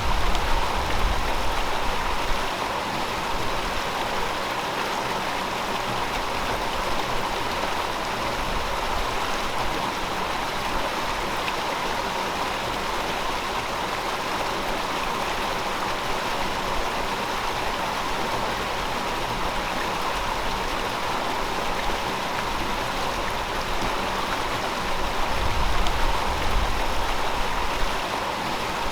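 River water flowing over rocks, a steady rushing and babbling. A low rumble swells up briefly near the start and again near the end.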